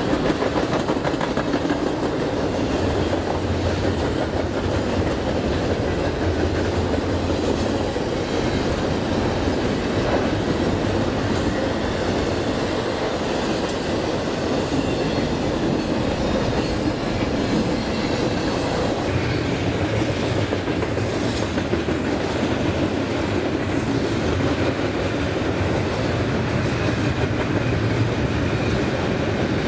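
BNSF freight train cars rolling past at a steady pace, a continuous rumble with the wheels clacking over rail joints. A faint high wheel squeal comes in past the middle.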